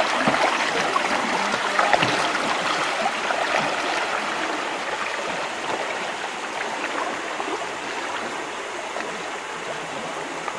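Rushing, gurgling water with small splashes, slowly fading.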